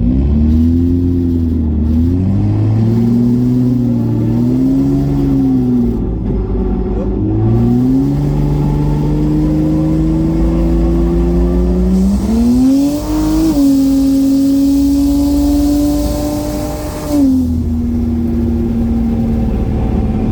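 BMW N54 inline-six with a Precision 6466 single turbo on 17 psi of boost, in a race. The revs bob up and down for the first few seconds, then climb steadily under hard acceleration from about eight seconds in, dip briefly at a gear change around thirteen seconds, and pull on with a loud rushing hiss. Near the end the throttle closes and the revs drop and settle.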